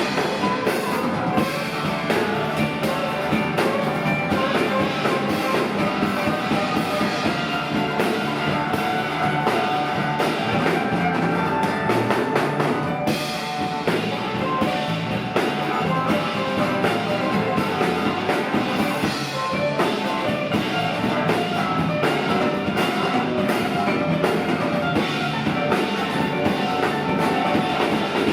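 Live rock band playing an instrumental passage, with drum kit and electric guitar.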